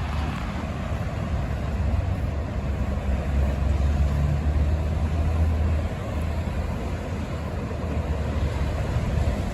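Highway traffic: steady tyre and engine noise, with a truck's low engine drone that grows stronger about three seconds in and eases off near six seconds.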